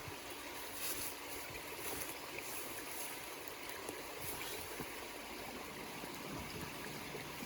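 A stream flowing steadily, with a few faint brief rustles about a second in and again around two to three seconds in.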